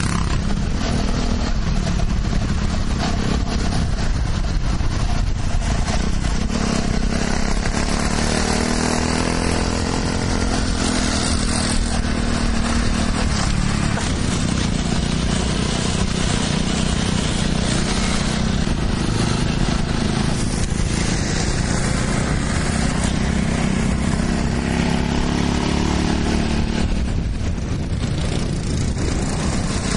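Honda Cub step-through motorcycle's four-stroke flat-single engine running, its pitch rising and falling gently as the speed changes.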